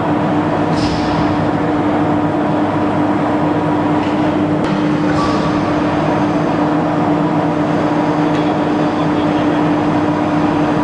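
Steady industrial machinery hum with one strong low tone, even throughout, with a few faint clicks about a second, five seconds and eight seconds in.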